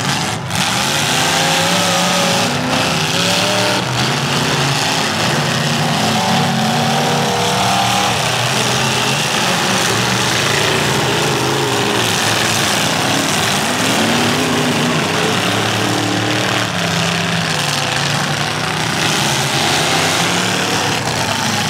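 Several demolition derby cars' engines running and revving at once, their pitches rising and falling over a steady wash of noise.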